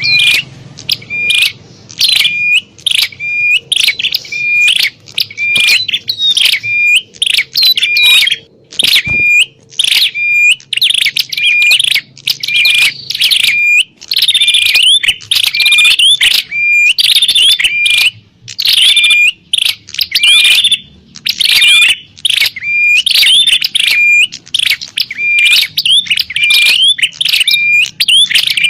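Prinias (prenjak) giving a rapid, unbroken run of sharp, loud chirps about twice a second, the agitated calling of birds squabbling, as used in a lure call for wild prenjak.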